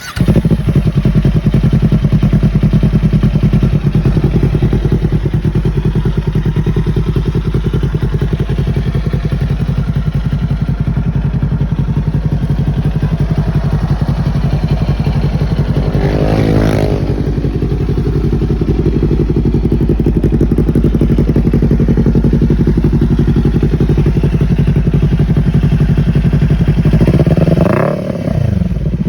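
Kawasaki Ninja 400's parallel-twin engine idling steadily, with one quick rev that rises and falls about halfway through, and the throttle blipped again near the end.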